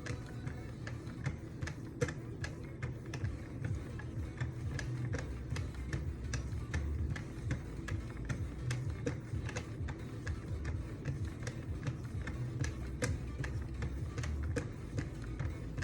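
Wicked Edge sharpening stones being stroked along a knife's edge, with many irregular sharp clicks as the stones meet and leave the blade, over background music.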